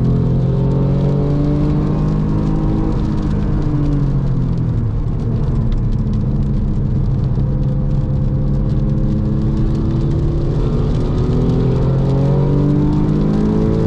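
Porsche 996.2 Carrera 2's 3.6-litre flat-six heard from inside the car at speed. It holds a steady pitch, drops around four seconds in as the driver eases off, runs lower through the middle, then rises in pitch under acceleration near the end. Under it is a steady hiss of tyres on the wet track.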